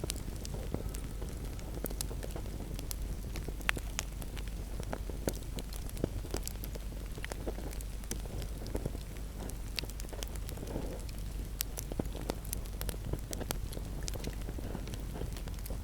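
Wood fire crackling in a fireplace: frequent irregular sharp pops and snaps over a low steady rumble of burning.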